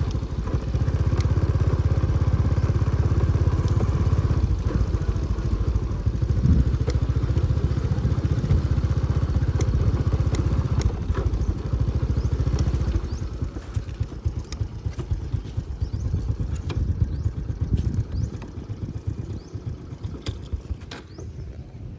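Motorbike engine running while riding over a bumpy dirt track, with rattles and knocks from the bike. About two-thirds of the way through the engine grows quieter, as if easing off.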